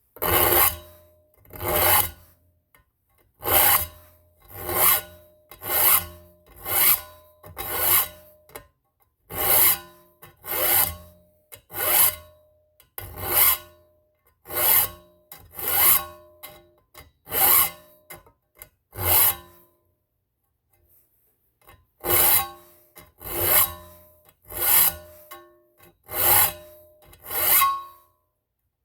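A metal file rasping across the teeth of a steel weed-whacker (brush cutter) blade, sharpening it by hand in about twenty strokes of roughly one a second, the blade ringing faintly with each stroke. The strokes stop for about two seconds around two-thirds of the way through, then resume.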